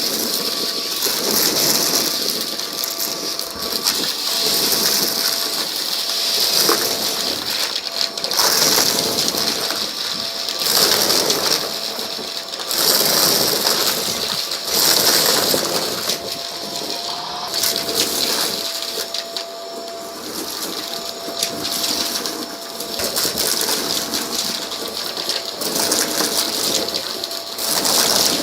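Vacuum cleaner running over a rug and sucking up a scattered debris mix, with crunching and rattling as bits go up the hose. Its motor makes a steady whine, and the sound swells and ebbs every couple of seconds with the push-pull strokes.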